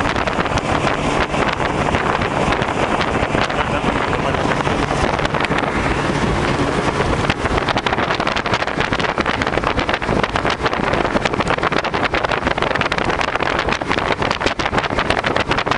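A moving vehicle: steady engine and road noise, with wind buffeting the microphone that grows choppier from about halfway through.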